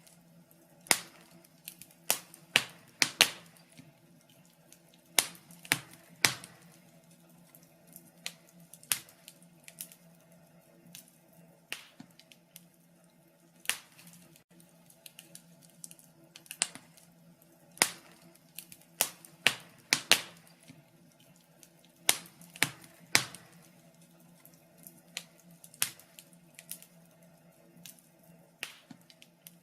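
Wood fire crackling, with sharp pops and snaps at irregular intervals, some coming in quick clusters, over a faint steady low hum.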